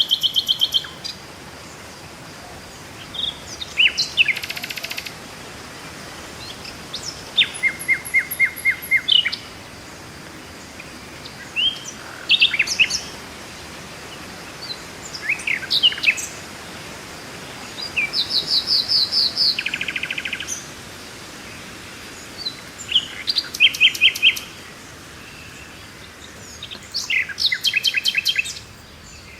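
Songbirds singing: repeated high chirps and rapid trills in short phrases every few seconds, over a steady faint hiss, as in a nature-sounds background track.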